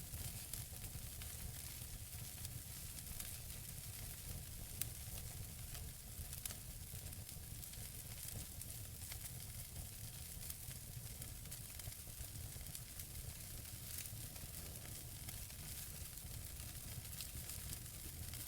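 Wood fire burning in a fireplace: logs crackling with scattered sharp pops over a steady hiss and a low rumble of the flames, one louder pop about five seconds in.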